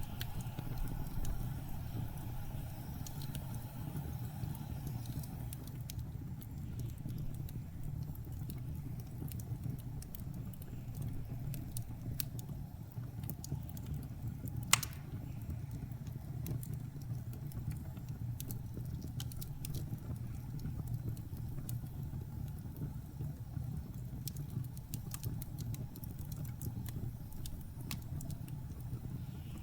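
Wood fire crackling with scattered small pops and one sharp pop about halfway through, over a steady low rumble of blizzard wind.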